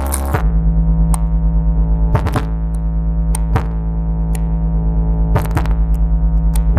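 Large sound system with a bank of twelve subwoofers playing electronic music, here a deep sustained bass note that pulses about five times a second, with steady tones above it and a few sharp clicks.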